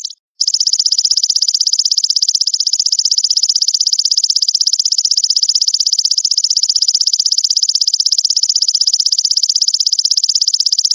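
Belalang mas grasshopper calling: a steady, rapid, high-pitched pulsing trill, broken by a brief silence just after the start.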